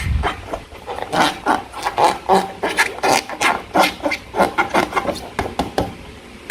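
Slime being squeezed and worked by hand: an irregular run of short, sticky squelches and crackling pops, several a second.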